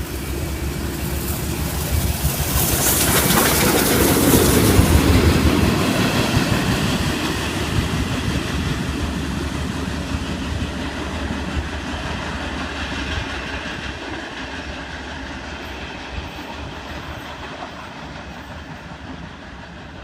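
Steam locomotive 5917 running light, with no carriages, passing close by on the track. It grows louder to a peak a few seconds in, then slowly fades as it moves away.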